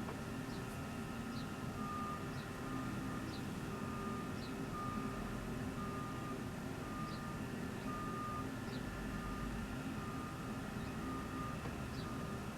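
A run of short beeps at one pitch, about one and a half a second, starting about two seconds in and stopping near the end. A steady low hum lies underneath, with faint high falling chirps now and then.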